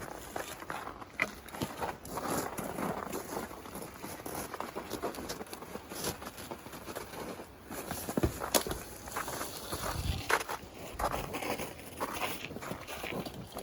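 Footsteps crunching through snow, uneven, with a few sharper knocks among them.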